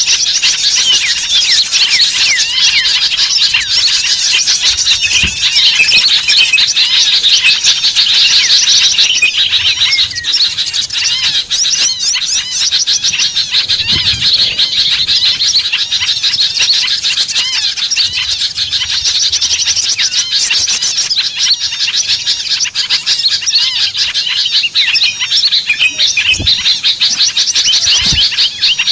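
A dense chorus of many small birds chirping and twittering over one another without a break. It is a lure (pikat) recording made to call small birds in.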